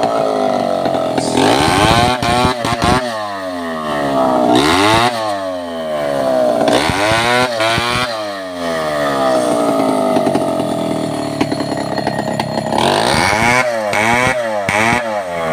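Stihl 070 two-stroke chainsaw revving again and again, its pitch jumping up and then sinking away each time, with a quick run of short revs near the end.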